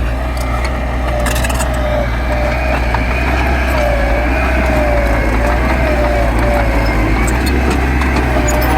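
Heavy diesel earthmoving machinery running steadily under load: a deep engine drone with a high whine that wavers slightly in pitch.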